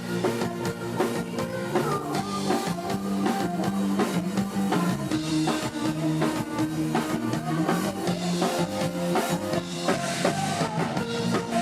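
Live band music with a steady drum beat and guitar.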